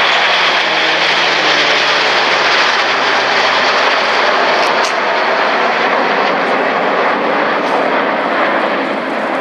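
Formation of Red Arrows BAE Hawk jets with a King Air turboprop flying past, their engines making a loud, steady roar. A low tone in the roar drops in pitch during the first half as the aircraft pass.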